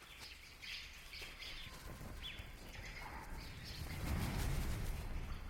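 Birds calling at a carcass in short repeated calls, with a low rushing noise, like wind or wingbeats, building from about four seconds in.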